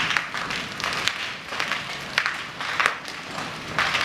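Hailstones pelting down, a dense irregular patter of hard impacts with louder clusters of sharper hits about once a second.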